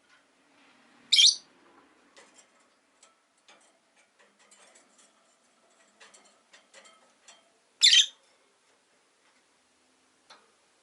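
Rosy-faced lovebirds calling: two loud, short, high calls about six and a half seconds apart, with faint clicks and small chirps in between.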